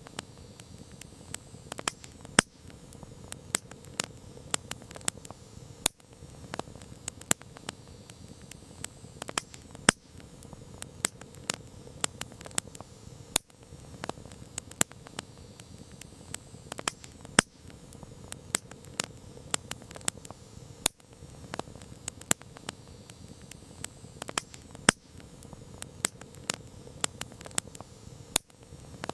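Campfire crackling: burning wood giving off irregular sharp pops and snaps, several a second, a few much louder than the rest, over a soft steady rush of the flames.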